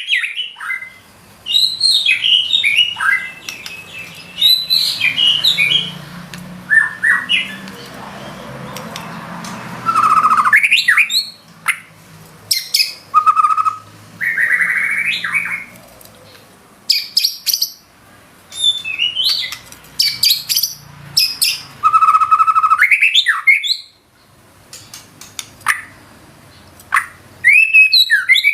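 White-rumped shama singing loudly and continuously: a varied run of whistled notes, quick up-and-down glides, sharp clicks and fast chattering trills in bursts with short pauses, the varied phrases being mimicked songs of other birds ('isian').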